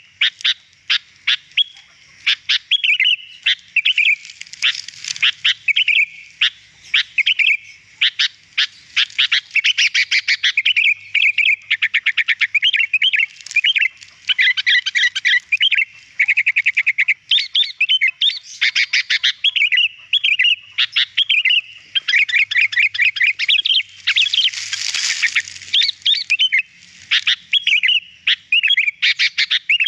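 Sooty-headed bulbul (kutilang) singing continuously: a fast, busy run of high chirps, warbled phrases and rattling trills, with a harsher, scratchy burst about five seconds before the end.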